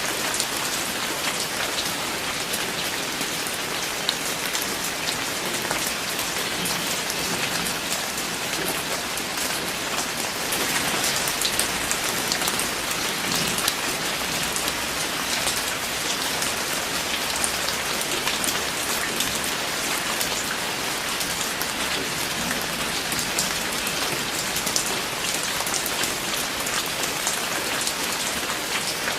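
Steady rain falling on a surface, a constant hiss dotted with many individual drop impacts.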